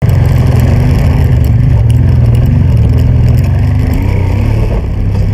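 Honda Transalp motorcycle engine running while under way, a steady low engine note whose pitch wavers about four seconds in.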